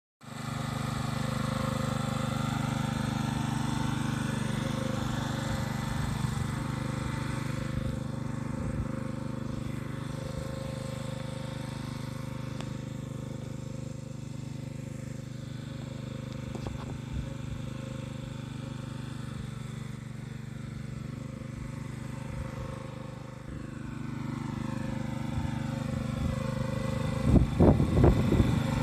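Small engine-driven water pump running steadily at constant speed while pumping water. A few loud knocks come near the end.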